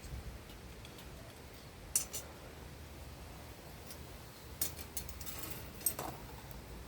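A few light, sharp metallic clicks and clinks, spaced a couple of seconds apart, with a short scrape between the last two, over a low steady hum: tools and small metal parts being handled.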